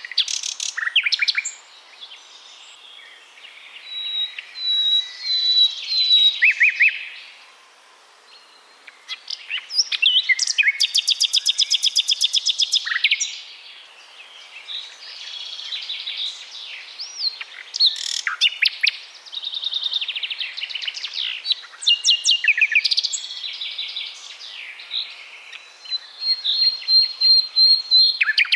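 Several songbirds chirping and singing, overlapping, with short whistled notes and a long fast trill about ten seconds in.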